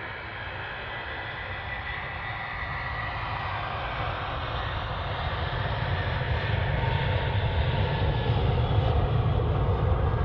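Airliner engines growing steadily louder as the plane approaches: a whine over a rumble that strengthens.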